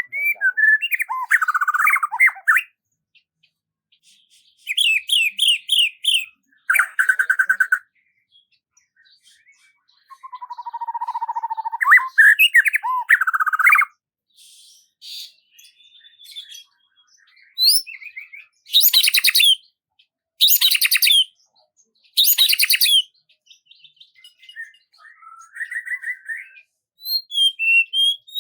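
Songbird singing in separate short phrases of chirps, trills and whistled notes, with silent gaps between them. Three loud runs of quick high notes come in the second half.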